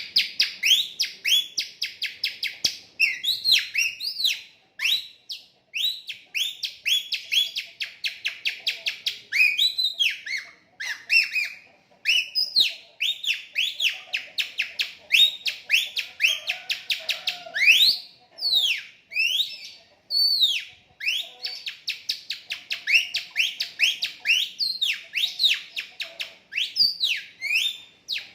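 Birdsong imitation made by sucking air through a thin, stretched piece of plastic shopping bag held to the lips, mimicking a murai. It gives rapid high chirps, mostly quick upward sweeps at about three or four a second, in runs broken by short pauses, with a few longer sweeping whistles in between.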